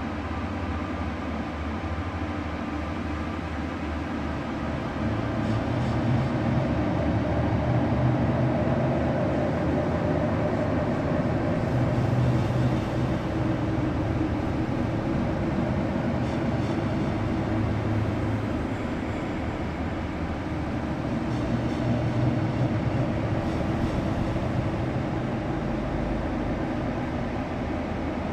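Continuous low rumble and engine drone of a moving vehicle, swelling louder a few seconds in and again near the end.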